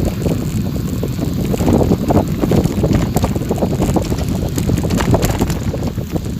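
Wind buffeting the microphone in a steady loud rumble, with scattered small clicks and rattles throughout.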